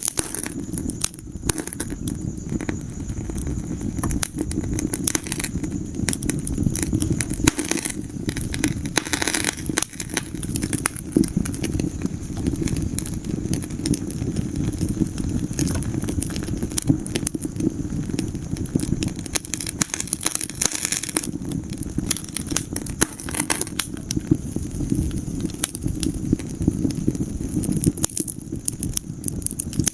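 Wood fire burning in a fireplace, with many dense, irregular crackles and pops over a steady low rumble of flames.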